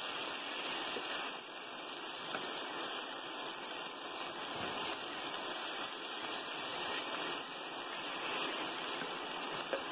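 Sliced mushrooms, onion and garlic sizzling in butter in a frying pan, a steady hiss, as they are stirred with a spatula to keep the garlic from burning.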